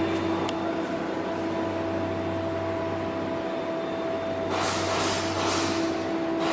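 Weichai WP6D132E200 six-cylinder diesel engine of a 120 kW generator set running at a steady speed, a constant drone. From about two-thirds in, a hiss pulsing a few times a second joins it.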